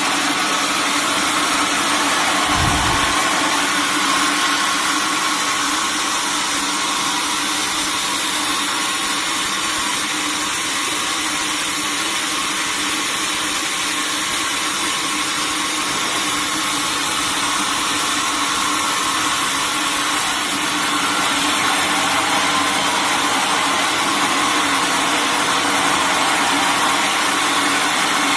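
Sawmill machinery running steadily, a constant mechanical drone with a steady hum under it. There is a brief low thump about three seconds in.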